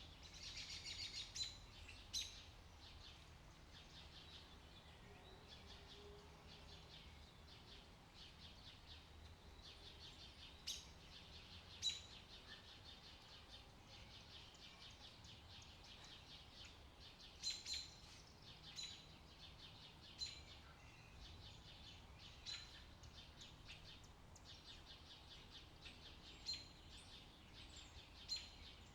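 Faint birds chirping and twittering, with sharper single chirps standing out every few seconds.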